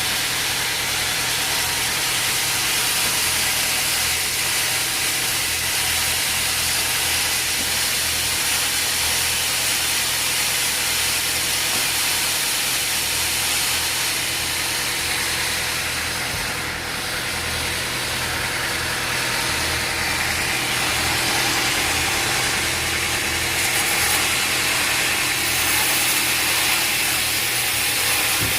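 Sawmill machinery running steadily, a continuous loud mechanical noise with a low, even hum.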